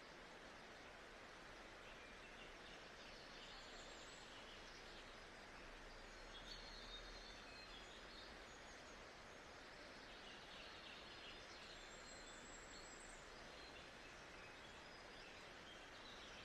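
Faint nature-sound ambience: a steady bed of soft noise with faint bird chirps now and then.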